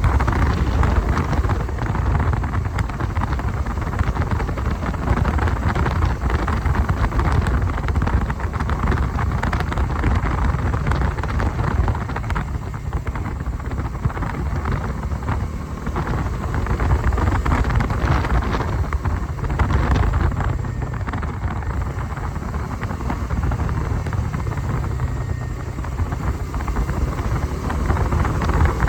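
Wind rushing over the microphone of a moving motorcycle, with engine and road noise beneath it, steady throughout.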